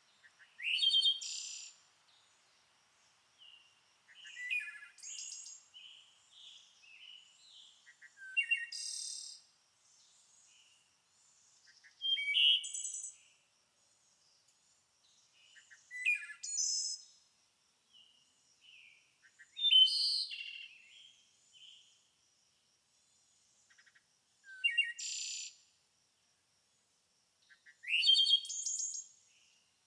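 A songbird singing short, varied phrases of high chirps and quick trills, about one every three to four seconds, with softer chirps in between.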